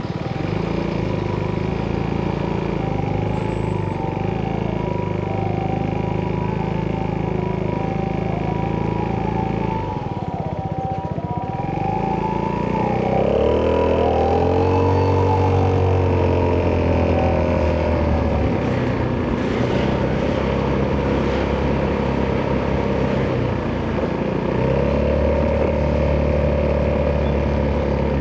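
Italjet Dragster 200's single-cylinder four-stroke engine running through an Akrapovic exhaust while riding. It holds steady speeds, eases off about ten seconds in, then pulls louder and higher a few seconds later. Over the first ten seconds or so, a higher tone rises and falls over and over.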